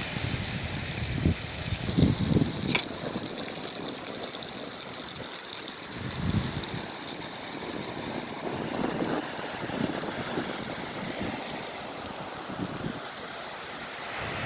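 Pieces of navaga fish frying in oil in a pan, a steady sizzle, with one sharp click about three seconds in.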